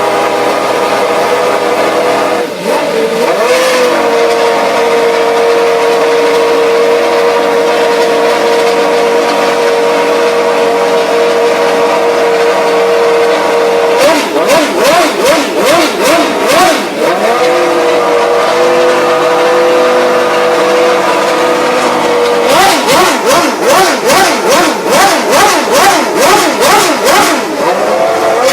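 Williams FW18 Formula One car's Renault V10 engine at high revs, its high pitch held steady for long stretches. Twice the pitch jumps up and down in quick succession, several times a second: a string of gear changes with the revs rising and falling.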